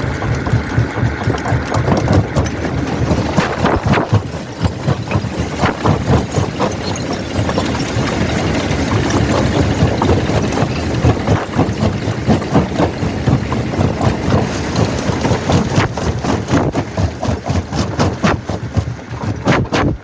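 Quarry primary rock crusher working: a steady machinery rumble with many irregular sharp knocks and cracks as stone is broken in the crusher.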